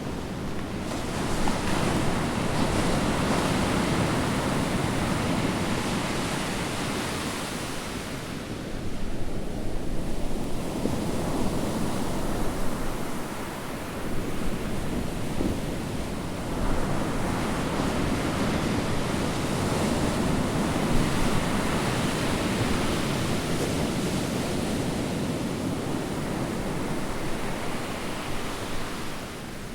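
Ocean surf breaking and washing ashore, a steady rush that swells and eases every few seconds, with wind rumbling on the microphone.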